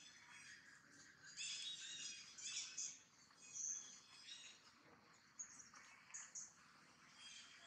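Faint bird chirps and calls, in a run of quick high chirping from about one and a half to three seconds in, then a few short separate chirps near six seconds.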